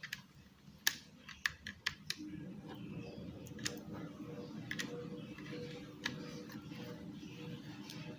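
Sharp hard-plastic clicks from the SPC SMW-10 wireless mouse, about nine, irregularly spaced, over a faint steady low hum.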